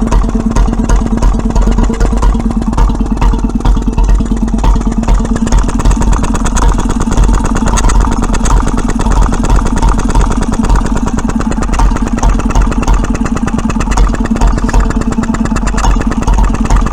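1924 Petter M 1.5 hp single-cylinder stationary engine running steadily, firing at a fast even beat, with its magneto gears quiet rather than chattering. It runs on a lighter governor spring than specified, so below its rated 750 RPM.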